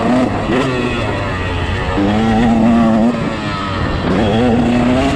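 Motocross bike engine running on throttle, its pitch holding steady for stretches and dipping then climbing again a little past halfway as the throttle is rolled off and back on.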